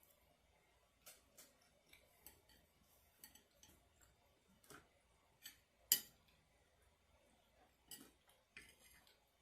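Irregular light clicks and taps of a metal spoon working through a takeout food container while eating, with one sharper clink about six seconds in.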